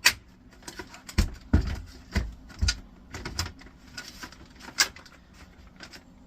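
Sharp clicks and knocks, a few with a dull low thump, as the plastic housing of a flatscreen computer monitor is handled and fitted back together.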